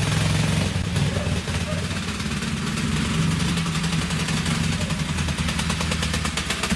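Dnepr-12 (K-750) sidecar motorcycle's 750 cc flat-twin engine running steadily, with an even, rapid firing beat.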